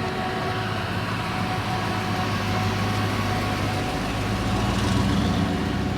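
A classic car's engine running at low speed as it rolls slowly past, a steady low rumble that grows a little louder about four to five seconds in.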